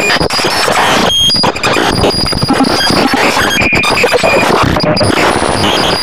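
Fan-made Emergency Alert System alarm: a loud, harsh wall of noise with short high steady tones breaking in and out, and a few brief gaps.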